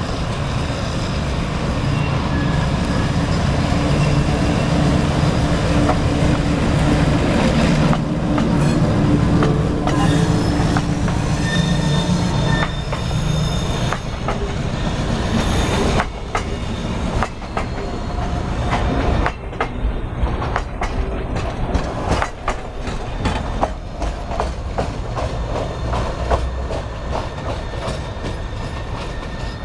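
GE U11B diesel-electric locomotive passing close, its engine drone loudest for the first half. About halfway through, the drone gives way to the coach wheels clicking rapidly over the rail joints, with thin high wheel squeal on the curve throughout.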